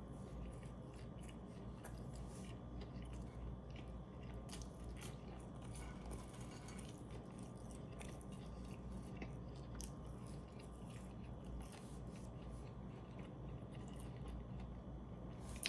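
A person chewing mouthfuls of a McDonald's Double Big Mac, with scattered faint wet mouth clicks over a steady low room hum.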